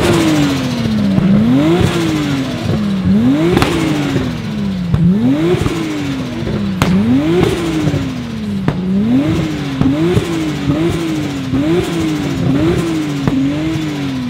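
Tuned Toyota Supra Mk4 engine revved over and over while standing: the note rises quickly and sinks back slowly about every two seconds, then comes as a quicker run of short blips about ten seconds in, and falls away slowly near the end. A couple of sharp cracks sound among the revs.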